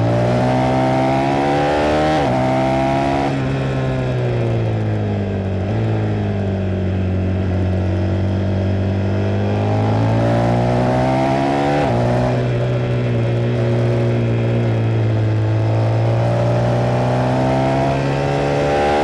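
KTM 390 Duke single-cylinder engine heard from on board while it is ridden through a series of bends, its pitch rising and falling with the throttle and stepping at several gear changes. It is ridden at a relaxed pace, kept off the high revs.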